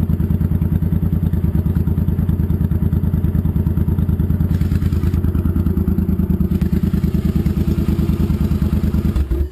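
A 2010 Suzuki C800's 805 cc V-twin running steadily through Vance & Hines Cruiser aftermarket exhausts, with a loud, even, pulsing exhaust note. It cuts off abruptly near the end.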